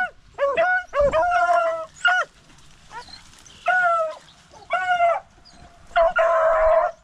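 Beagle hounds baying as they run a rabbit track: a run of short chop barks, a brief lull, then a longer drawn-out bawl near the end.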